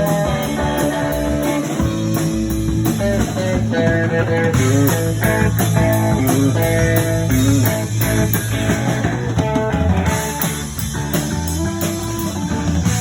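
Blues band playing an instrumental passage: guitar lead lines over bass and drums, with no singing.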